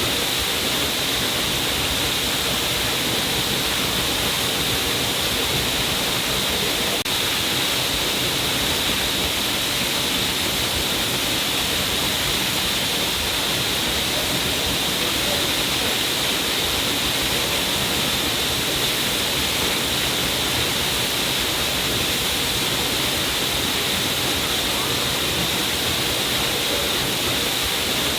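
A small stream of water falling down a cliff face, a steady, unbroken rushing and splashing.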